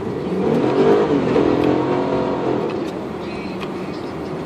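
Vehicle engine revving up and easing back down, loudest about a second in, over steady road and cabin rumble.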